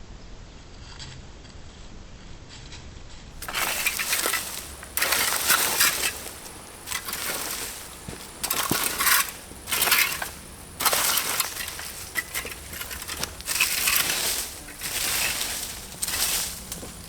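Gravel and stones crunching and scraping in a series of irregular bursts that start about three seconds in.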